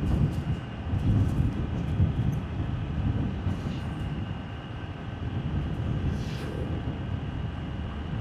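Motorbike riding along a road: a steady low rumble of engine, tyres and wind on the microphone, with a faint steady high tone above it.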